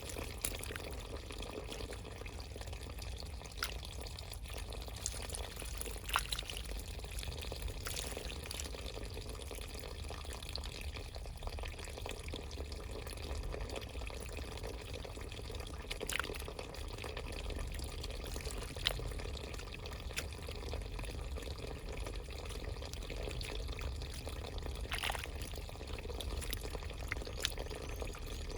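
Running water trickling and splashing steadily, with a few brief sharp plinks scattered through it.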